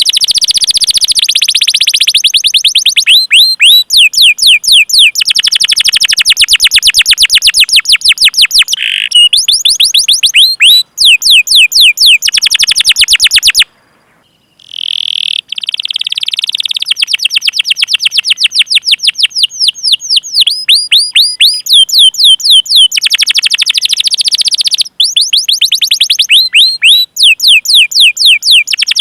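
Domestic canary singing loud, rapid rolls of repeated falling chirps ('cuit cuit' calls), with a short break about halfway through.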